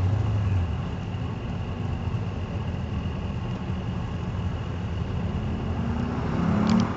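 Corvette V8 engine working hard through an autocross cone course, its note climbing in pitch near the end as the car accelerates.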